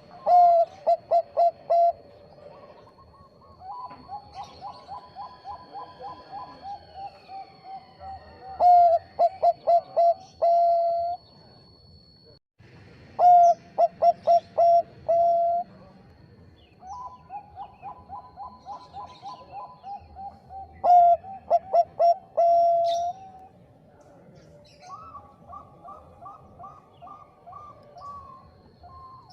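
Zebra doves (Bangkok-type perkutut) cooing: repeated phrases of quick stuttering notes ending in a held coo. Four loud phrases alternate with quieter, softer cooing phrases in between.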